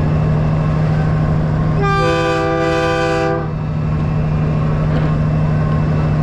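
A truck's train-style air horn blows once for about a second and a half, a chord of several notes sounding together. Under it a diesel engine drones steadily.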